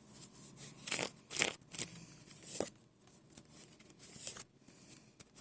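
Tarot cards being shuffled and drawn: a few short papery swishes, mostly in the first half.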